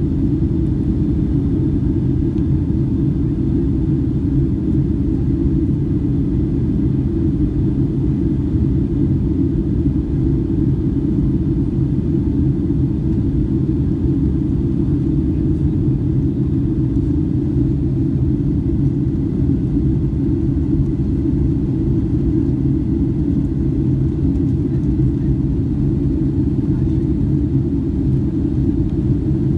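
Boeing 757-200 airliner cabin noise: a steady low roar of the jet engines and airflow, heard from inside the cabin.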